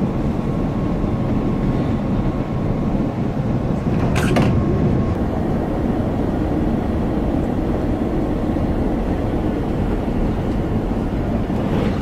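Steady low rumble of an airliner cabin in flight: engine and air noise at an even level, with a brief click about four seconds in.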